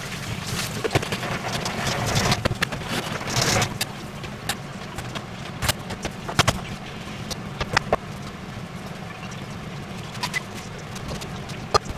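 Scattered sharp clicks and knocks over a steady low hum, busier in the first few seconds.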